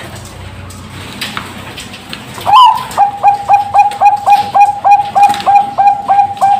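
Zebra dove (Bangkok-line perkutut) singing. After a quieter stretch, it gives a rising opening note about two and a half seconds in, then a fast run of short, even cooing notes, about four a second.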